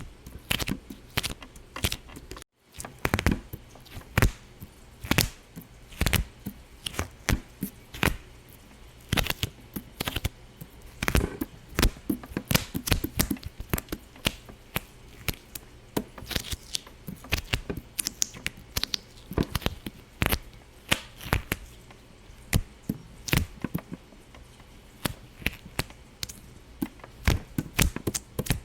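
Irregular sharp pops and clicks, several a second, some louder than others, broken by a brief gap of silence about two and a half seconds in.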